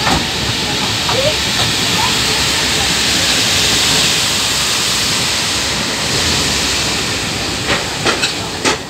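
Loud, steady rushing noise from the open doorway of a moving passenger train in monsoon rain: the train running, with wind and water mixed in. Several sharp clicks come near the end.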